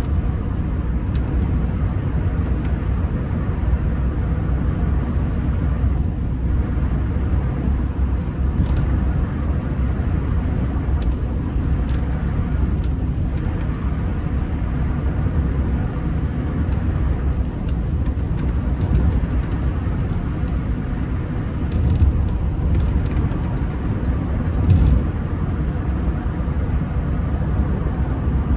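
Steady low rumble of road and engine noise inside the cabin of a Rolls-Royce Silver Spirit III on the move.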